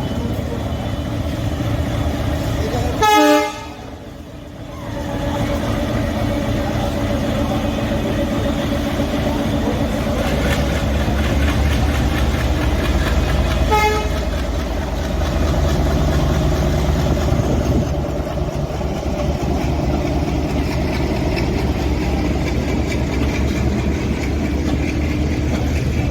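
Train horn blown once, short and loud, about three seconds in, and a shorter, fainter toot at about fourteen seconds, over the steady low rumble of a train's engine, which grows louder about ten seconds in.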